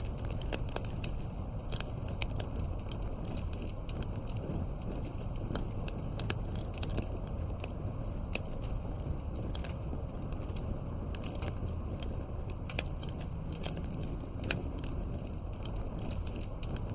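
Campfire burning, the wood crackling and popping in irregular sharp snaps over a steady low rumble of the flames.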